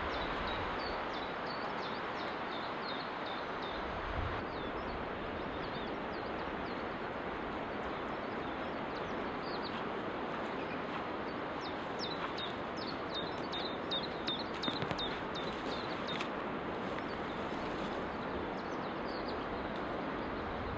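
Small birds chirping in the forest, short high calls scattered through and coming thickest about two-thirds of the way in, over a steady rushing background noise.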